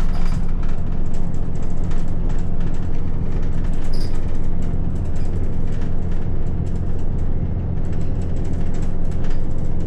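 Steady low drone of a running vehicle engine, an even hum with no break.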